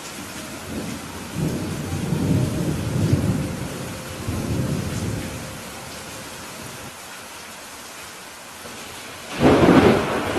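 Steady rain with thunder: a low rolling rumble swells for a few seconds early on and fades, then a sharp, loud thunderclap cracks near the end.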